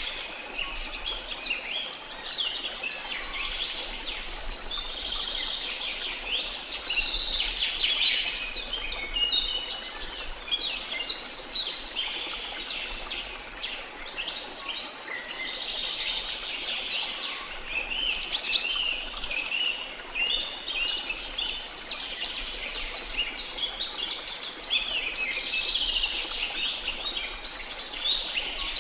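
A chorus of many birds chirping and trilling without a break, dense short high calls overlapping one another, over a faint steady background hiss.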